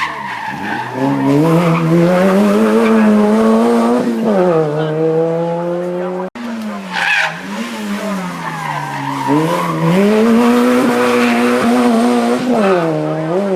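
Hillclimb race car engine at high revs, climbing in pitch through the gears with sharp drops on shifts and lifting off; about six seconds in the sound cuts to a second car doing the same.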